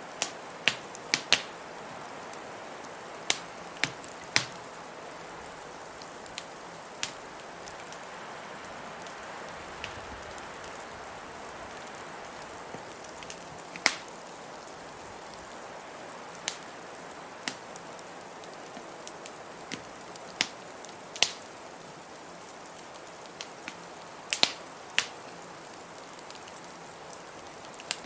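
Wood fire in a fireplace crackling, with sharp pops every second or two at uneven intervals, over a steady hiss of blizzard wind.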